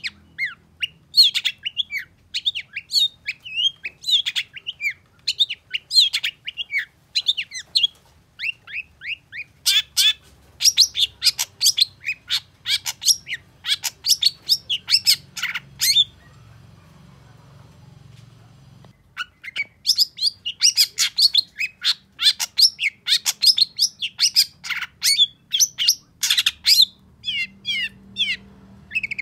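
Long-tailed shrike singing a fast, chattering song of rapid high chirps and trills, breaking off for about three seconds midway before starting again.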